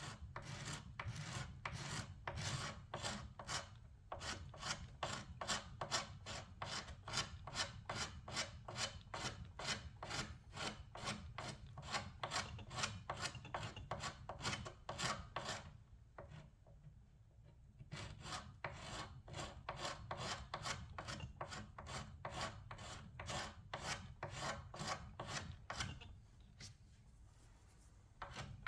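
Hand strokes rubbing old paint and finish off a wooden surface, repeated at about two or three strokes a second, with a pause of about two seconds a little past the middle and another near the end.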